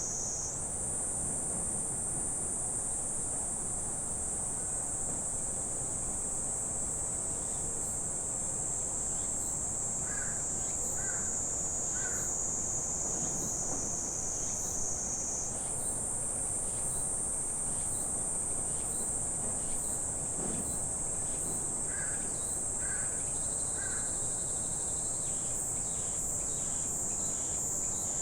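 A continuous high-pitched insect drone that steps up in pitch near the start and again about halfway through. A bird gives three short calls about ten seconds in and three more near the end.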